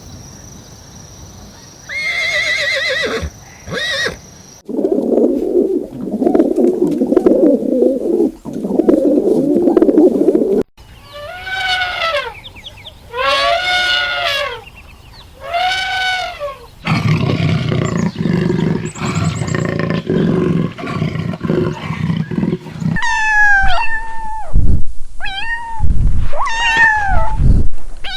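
A series of different animal calls, one after another: a short pitched call, then several seconds of low, rough growling, then three long calls that rise and fall in pitch, a low rumbling stretch, and a run of quick, high, falling calls near the end.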